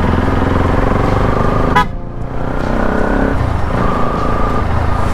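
Bajaj Pulsar NS200's single-cylinder engine heard while riding through an aftermarket Akrapovic full-system exhaust. Its pitch rises with throttle, drops off sharply about two seconds in, then picks up again. A vehicle horn sounds briefly about four seconds in.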